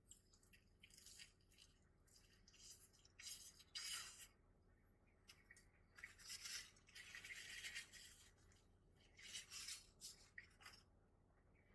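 Near silence broken by faint, irregular soft bursts of chewing and mouth noise from someone eating a sandwich, the longest stretch of it about two-thirds of the way through.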